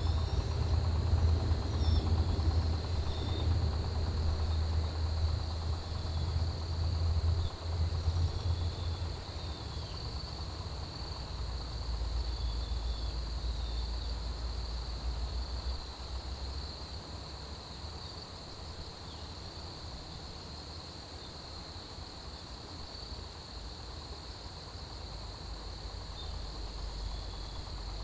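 Autumn crickets and other grass insects chirping in a steady, dense chorus, with one very high trill pulsing rapidly. A low rumble is loudest in the first third and fades away past the middle.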